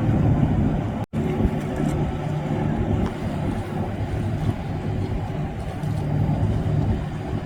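A boat's engine running as a steady low hum that holds its pitch. The sound cuts out completely for an instant about a second in.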